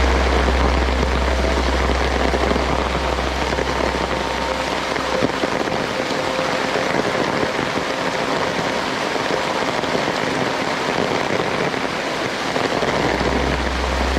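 Heavy rain falling steadily, a dense even hiss, with a low rumble underneath that fades out about five seconds in and comes back near the end.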